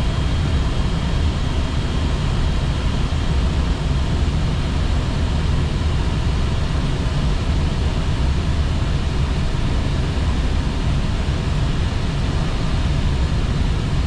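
Steady cockpit noise of an Airbus A320 descending on approach: a constant rush of airflow and engine rumble, heaviest in the low end. A faint thin high tone sounds for the first few seconds.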